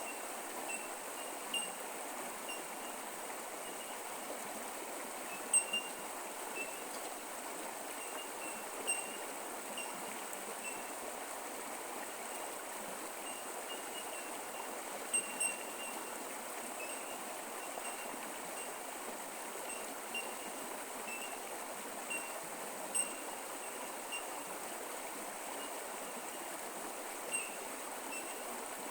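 Creek water running steadily over rocks, with short, high plinks scattered every few seconds.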